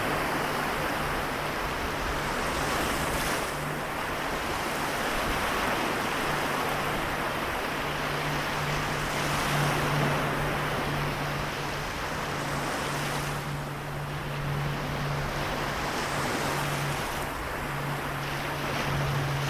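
Small waves washing on the shore of the Seto Inland Sea in a steady wash of surf. Underneath, a steady low hum grows stronger from about six seconds in.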